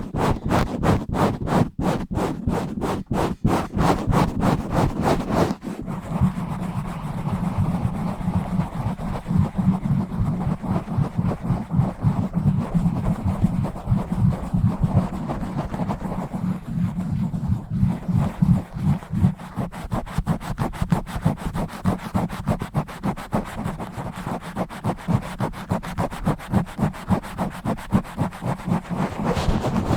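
Fast, aggressive scratching directly on a bare microphone. At first it comes in quick, even strokes of about four a second; about six seconds in it turns into denser, continuous rubbing and scratching.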